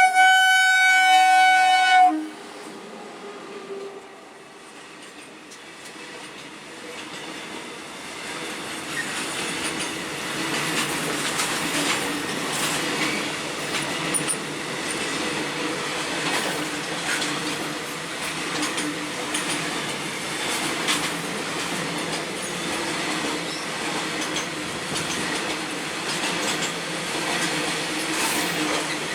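A WAG 9 electric locomotive's horn sounds one loud blast of about two seconds. Then a freight train runs past on the rails. Its rumble grows for several seconds and then holds steady, with repeated sharp clicks of the wheels over the rail joints.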